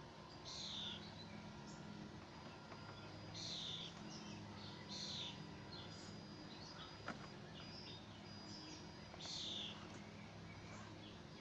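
A songbird calling outdoors: short, clear whistled notes that slide downward, repeated four or five times a few seconds apart. Underneath is a steady low hum, and there is a single sharp click about seven seconds in.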